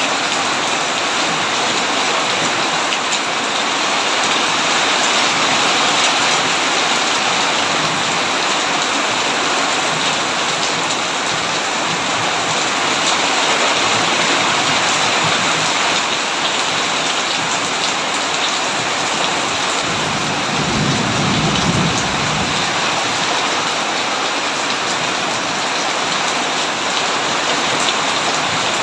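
Heavy rain pouring steadily on a tin roof, with a low roll of thunder about twenty seconds in.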